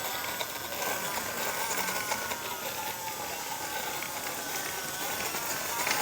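Toy vehicle's small motor running with a rattle, its whine drifting slowly up and down in pitch.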